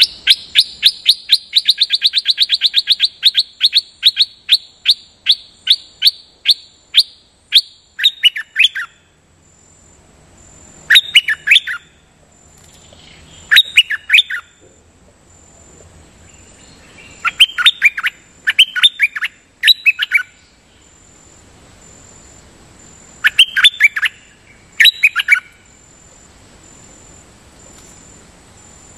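Caged decoy bird (Thai nok dok taeng) singing: a long run of repeated sharp notes, quick at first and slowing over several seconds. It is followed by short bursts of quick paired notes every few seconds with quiet gaps between.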